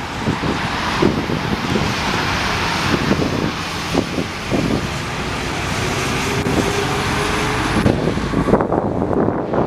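Jet airliner engines giving a steady, loud rushing roar, with wind buffeting the microphone throughout.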